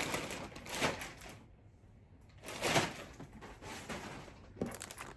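Packaging rustling and sliding as items are pulled out and handled, in several swishing bursts with a few small clicks near the end.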